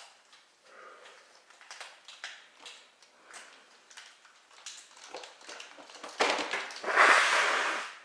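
Kitten sounds: faint small clicks and sniffs, then a much louder rushing noise about six seconds in that lasts nearly two seconds.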